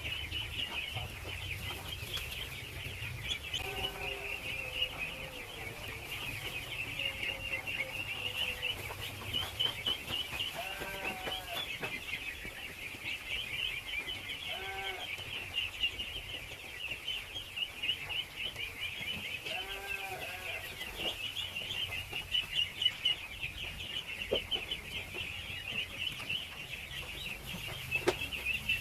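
A large crowd of ducklings peeping without pause in a high, dense chorus, with a few lower, separate calls now and then.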